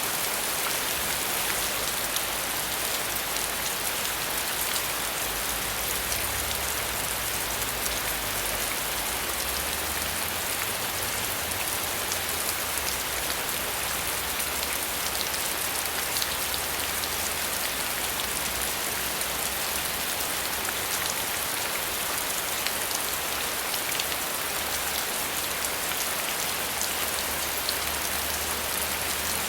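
Steady rain falling, an even, unbroken hiss of many drops with a faint low rumble underneath.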